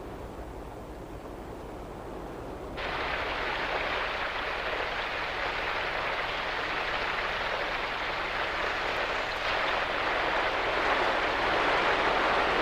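Steady rain, which jumps abruptly to a louder, heavier downpour about three seconds in and keeps falling hard.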